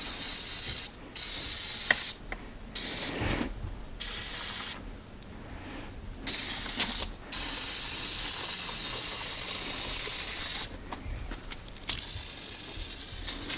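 Aerosol can of engine degreaser sprayed in a series of hissing bursts, mostly about a second each with one longer spray of about three seconds, stopping and starting as it is aimed at different spots.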